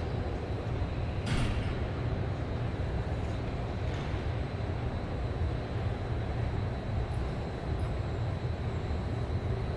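Steady low rumble of a large train station concourse, with a single sharp click about a second in.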